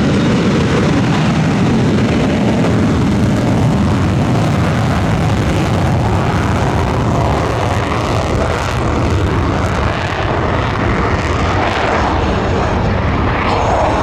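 Aircraft engine noise from an airplane on its takeoff run, a loud, steady rumble.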